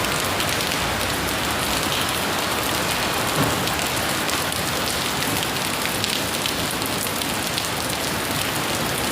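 Heavy torrential rain pouring steadily onto hard surfaces: a dense, even hiss with many fine drop ticks.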